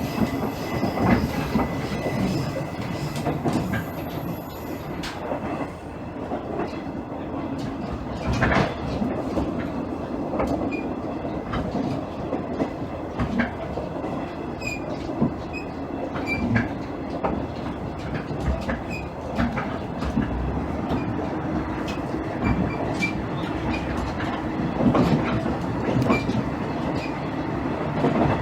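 Interior running noise of a JR East KiHa 110-series diesel railcar under way: a steady rumble of the diesel engine and wheels, with irregular clacks as the wheels pass rail joints. A thin, high wheel squeal fades out in the first few seconds.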